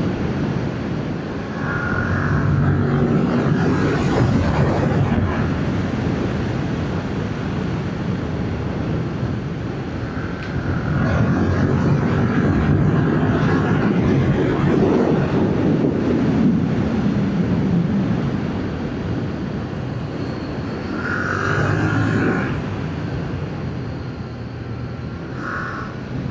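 Yamaha MT-07's 689 cc parallel-twin engine on its stock exhaust, pulling under load through corners, its revs rising and falling several times, with wind rushing over the helmet microphone.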